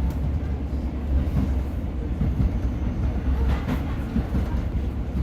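A Class 150 diesel multiple unit running along the line, heard from on board: a steady low rumble of engine and wheels on the rails, with a few clicks about three and a half seconds in.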